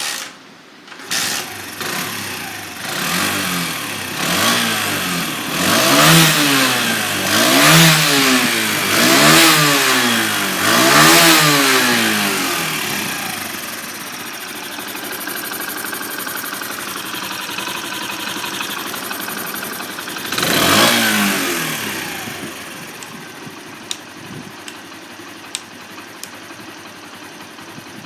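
Honda Benly 90S's single-cylinder four-stroke engine starting about a second in, then revved up and down about five times in a row before settling to a steady idle. It is revved once more partway through, then idles on.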